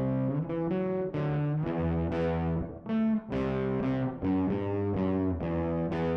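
Electric guitar, a no-name Les Paul copy on its bridge humbucker, played clean directly into an audio interface with a little reverb: a riff of struck chords, about two a second, with short breaks between phrases.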